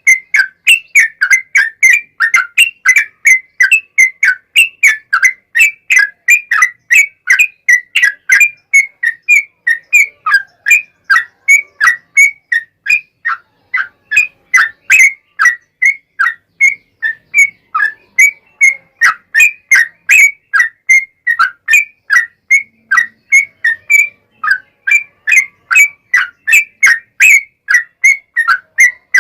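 Yellow-vented bulbul (trucukan) in full song: a long, unbroken run of loud, quick whistled notes, about three a second, with a short break about thirteen seconds in.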